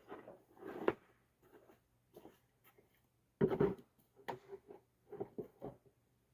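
Bluestone pieces being handled and set down: scattered short scrapes and knocks, the loudest a little over three seconds in.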